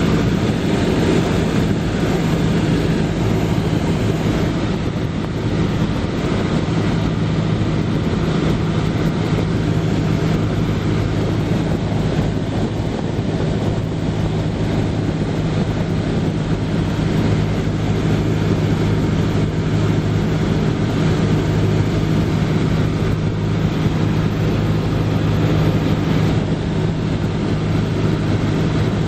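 Cessna 172S Skyhawk's four-cylinder Lycoming IO-360 engine and propeller making a steady drone at constant power in flight.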